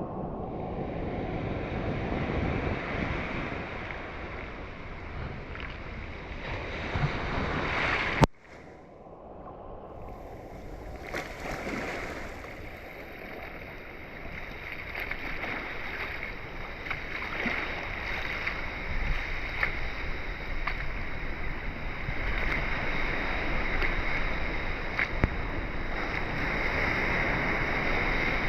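Ocean water surging and washing, with faint scattered crackling ticks. It breaks off abruptly with a sharp click about eight seconds in, then the wash builds again.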